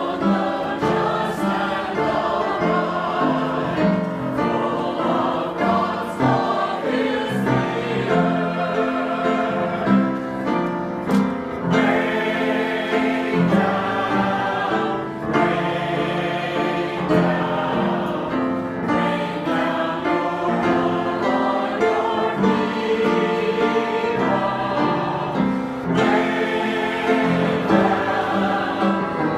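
Church choir singing a hymn together, in continuous sustained phrases.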